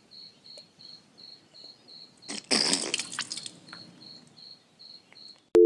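Cricket chirping steadily, about three high chirps a second, with a loud burst of noise lasting about a second, starting a little over two seconds in.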